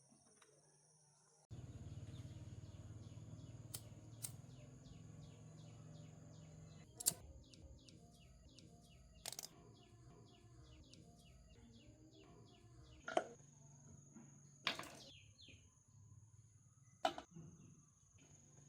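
Faint work sounds over a low steady hum: a quick run of rapid light ticks, then five sharp knocks spaced a couple of seconds apart, like tools or metal parts being set down or tapped.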